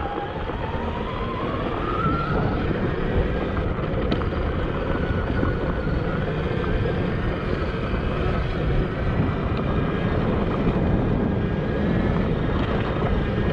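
Admitjet Armor electric dirt bike's motor and drivetrain whining as it pulls up a road climb in second gear, rising in pitch over the first two seconds and then holding steady. Heavy wind rush on the microphone runs under it.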